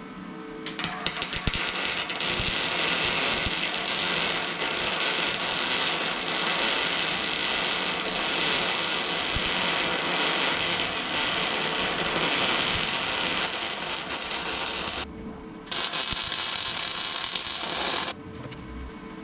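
Electric arc welder crackling while laying a weld bead, with a short pause about fifteen seconds in and stopping about a second before the end.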